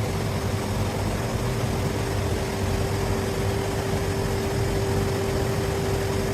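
A machine running steadily: a constant mid-pitched hum over low rumble and even noise, unchanging throughout.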